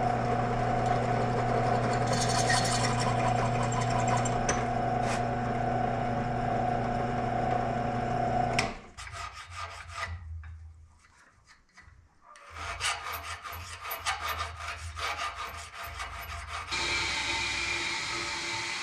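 Electric drill running steadily with a countersink bit cutting into a drilled pin hole in a metal spur, then shutting off about nine seconds in. Scattered scraping and tapping follow, and a steady hiss of another machine starts near the end.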